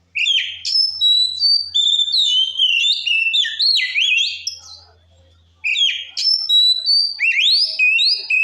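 Oriental magpie-robin (kacer) singing loudly in full song: fast, varied whistled phrases with rising and falling notes. It sings in two long bursts with a pause of about a second and a half in the middle.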